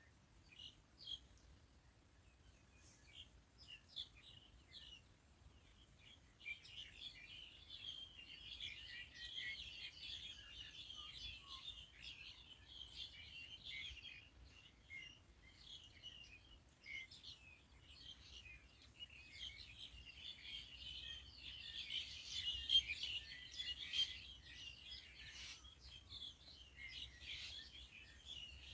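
Birds chirping: scattered chirps at first, then a dense chatter of many overlapping calls from about six seconds in, loudest about three quarters of the way through.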